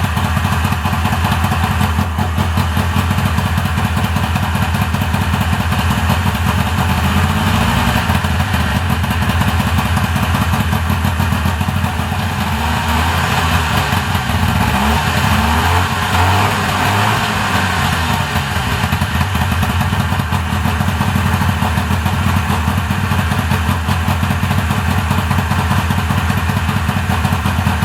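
Subaru R-2's 360 cc two-stroke twin engine running at idle, just brought back to life after 40 years laid up. The revs rise and fall briefly about a quarter of the way in, then several more times around the middle, before settling back to a steady idle.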